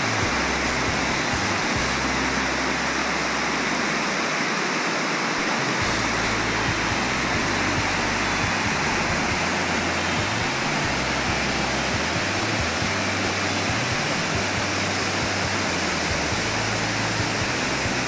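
Rushing water of a fast mountain river pouring over boulders: a loud, steady rush with no let-up.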